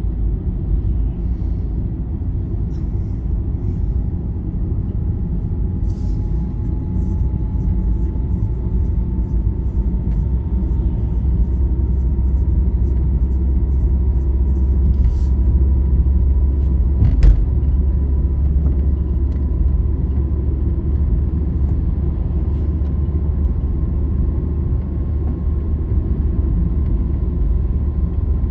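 A motor vehicle driving on a highway: a steady low rumble from road and engine, with a faint whine slowly rising in pitch, and a single sharp click about two-thirds of the way through.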